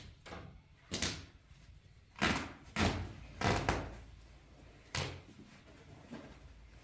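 A handful of irregular knocks and thuds, about six over several seconds, the heaviest ones in the middle.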